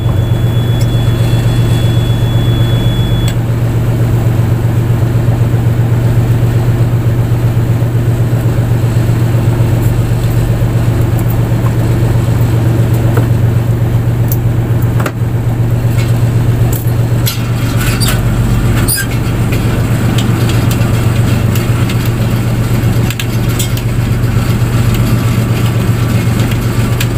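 Fishing boat's engine running steadily with a loud, even low drone, a few faint clicks over it about halfway through.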